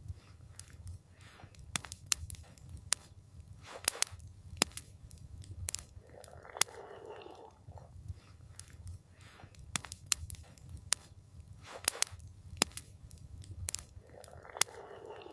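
Wood campfire crackling: irregular sharp pops and snaps over a low steady rumble, with a soft rushing swell about halfway through and again near the end.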